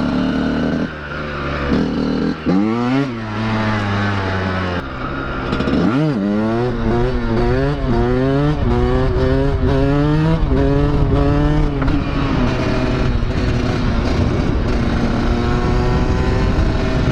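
Two-stroke dirt bike engine under the rider, revving up sharply about two and a half seconds in, then a run of quick rises and drops in pitch as the throttle works and gears shift, settling to a steady run near the end.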